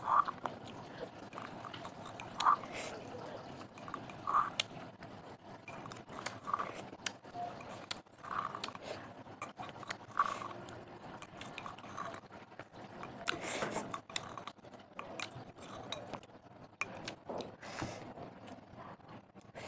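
Close-miked eating sounds of a person chewing and crunching snacks, with many small crunches and louder mouth sounds every couple of seconds.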